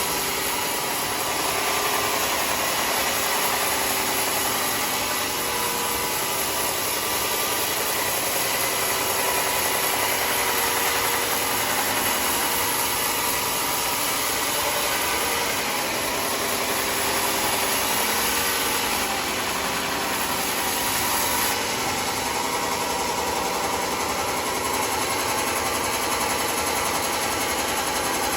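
Sawmill machinery running steadily: an engine-driven wood saw, a dense mechanical noise that holds without a break.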